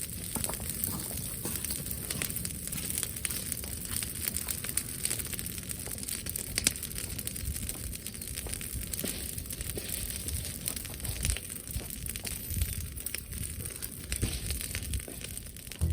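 Brushwood bonfire crackling, with many sharp pops and snaps over a steady hiss and a low rumble of wind on the microphone.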